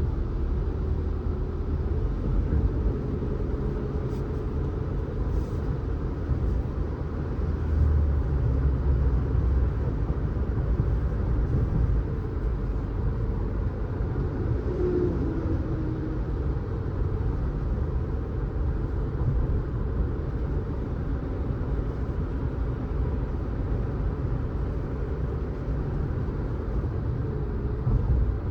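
Car driving along a road: a steady low rumble of engine and tyres, with a faint wavering engine tone above it.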